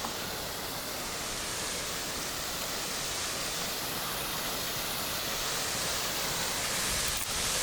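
Steady rushing of falling water from a waterfall, an even hiss-like roar with no breaks.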